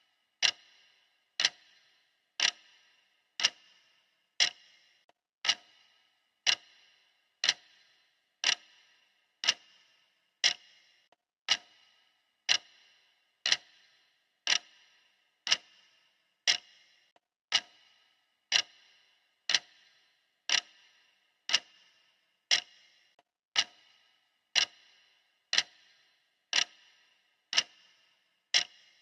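Clock ticking steadily, one sharp tick about every second, each with a brief bright ring.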